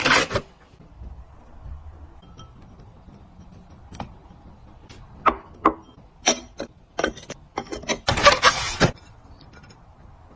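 Small hard items being handled and set down one after another: a string of light clicks and clinks, with a short noisy rustle at the start and another near the end.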